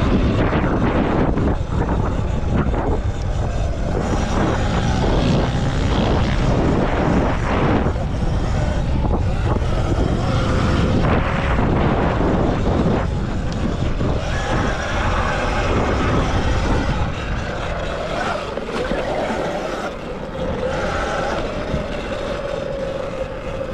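Electric motocross bike being ridden hard: heavy wind rumble over the microphone with tyre and dirt noise, and a whine that rises and falls in pitch. It eases a little in the last several seconds.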